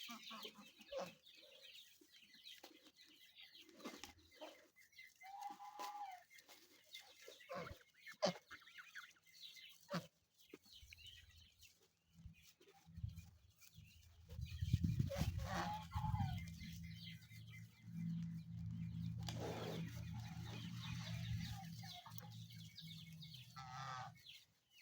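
Chickens clucking in scattered short calls. A little over halfway through, a low steady hum sets in under them for about ten seconds and is the loudest sound, then stops shortly before the end.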